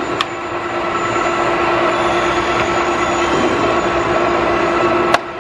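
Colchester Mastiff metal lathe running under power feed: a steady mechanical whine and rumble from its gearing, growing a little louder, with a sharp click shortly after the start and another near the end.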